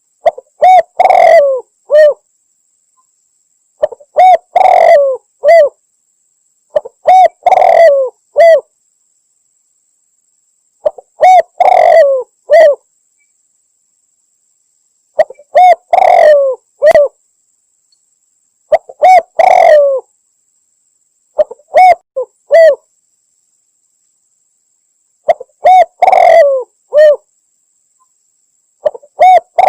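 Spotted dove (tekukur) cooing as a hunting lure: the same short phrase of several coos repeats about every three to four seconds, with dead silence between. It is billed as a female calling to draw males.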